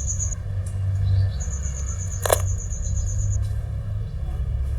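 A steady low hum, with a high insect-like trill in two bursts, the second from about a second and a half in to about three and a half seconds. There is a single sharp click just past two seconds.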